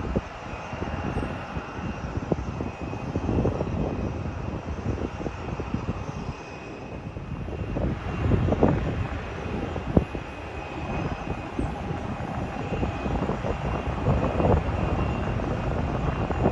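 Jet airliner engines running with a steady whine over a rumble, while gusts of wind buffet the microphone in irregular blasts.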